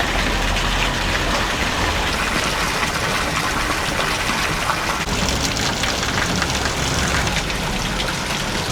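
Fountain water splashing and falling, a steady dense hiss.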